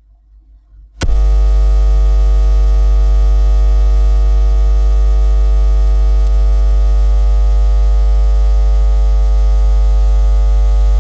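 Loud, steady electrical mains hum: a low buzz with many even overtones that starts abruptly about a second in and holds unchanged until it cuts off at the end.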